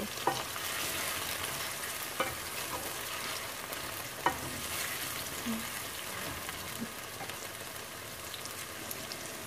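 Chopped tomatoes and onions sizzling in hot oil in a metal pan, cooking down to soften, while a wooden spatula stirs them. There are a few sharp knocks of the spatula against the pan.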